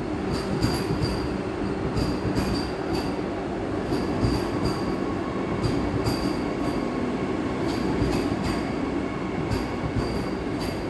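Vande Bharat Express electric multiple-unit train rolling past at platform speed as it arrives, with a continuous rumble. Its wheels click over the rail joints in regular groups of two or three, about every two seconds as each bogie passes. Each group brings a brief high-pitched squeal.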